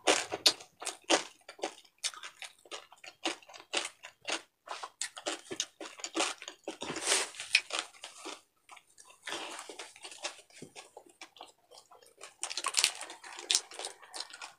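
Close-miked chewing of crispy deep-fried pork bagnet: a run of crunches and wet mouth clicks, with a stretch of paper-tissue rustling partway through.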